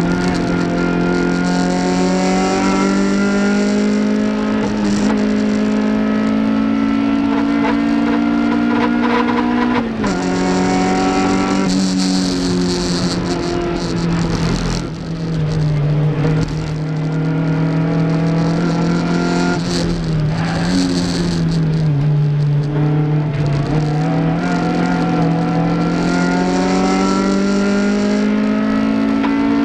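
Toyota MR2 race car's engine under hard acceleration, its note climbing through the revs with a sharp drop at an upshift about ten seconds in and another near the end. In between, the engine note falls and wavers as the driver lifts off and gets back on the throttle.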